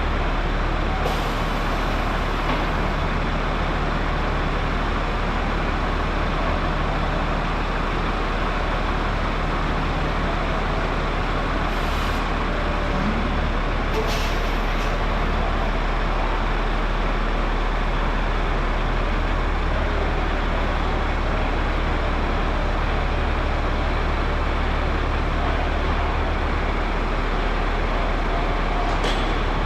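Steady machinery noise in a locomotive repair shop, an even drone with a low hum, broken by a few short hisses.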